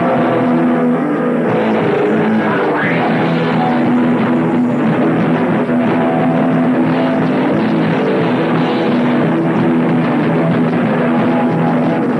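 Heavy metal band rehearsing live: distorted electric guitars holding chords over bass and a pounding drum kit, loud and continuous.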